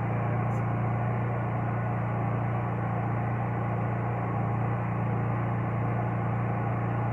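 Honda EU3000iS inverter generator's single-cylinder four-stroke engine running steadily just after a cold start, a smooth unwavering hum.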